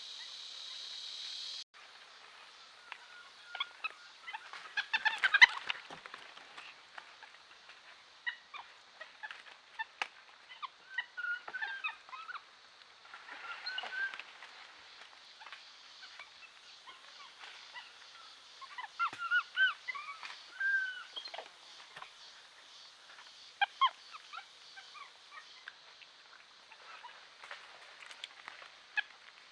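Birds calling: many short chirps and calls scattered throughout, with a loud cluster about five seconds in. A steady hiss at the start stops abruptly before two seconds in.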